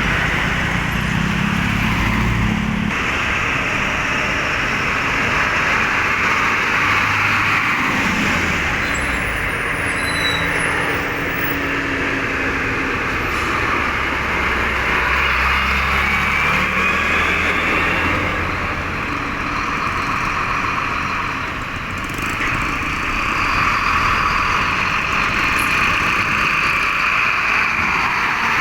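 Road traffic with cargo trucks driving past: engines running and a steady tyre hiss throughout, with the engine pitch shifting as vehicles come and go.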